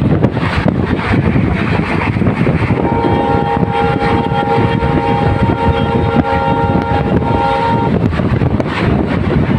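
Indian Railways train running, with a steady loud rumble and rattle. Its horn sounds one long blast of several notes together from about three seconds in, lasting about five seconds.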